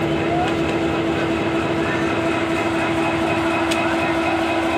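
Bangladesh Railway passenger train rolling slowly past, its carriages running on the rails with a steady hum.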